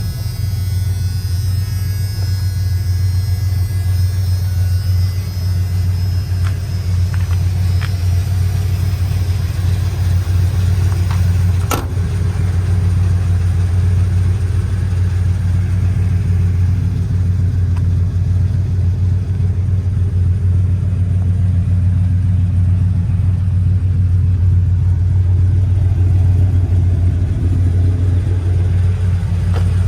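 The 460 cubic-inch V8 of a 1986 Ford F250 running steadily through new exhaust and mufflers, a deep even rumble. A single sharp click is heard about twelve seconds in.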